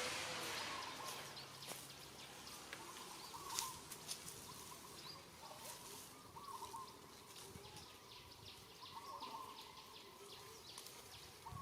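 Faint outdoor ambience: a bird gives short chirping calls every second or two over a steady hiss, with scattered faint ticks and clicks.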